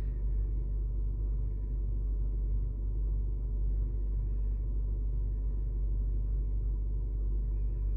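Vauxhall Meriva engine idling steadily, a continuous low rumble heard from inside the car.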